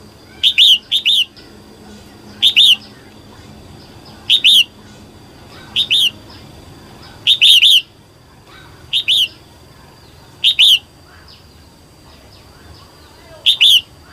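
Female red-whiskered bulbul calling: loud, short chirps, mostly in quick pairs of notes, repeated every second or two, with a pause of about two seconds near the end.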